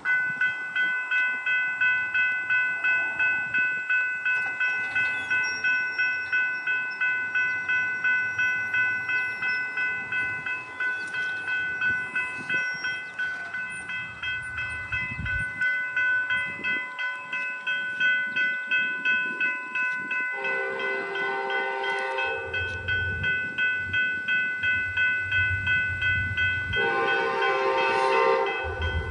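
Railroad crossing bell ringing steadily at about two strokes a second as an approaching Amtrak train sounds its horn twice: a longer blast about twenty seconds in and a shorter one near the end. The locomotive's low engine rumble builds between the blasts.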